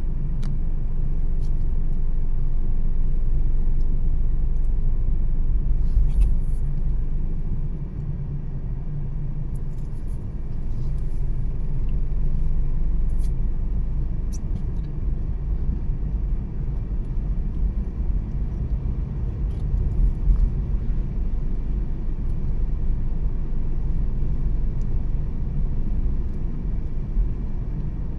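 Car driving along a road: a steady low rumble of tyres and engine, easing slightly about eight seconds in, with a few faint high ticks.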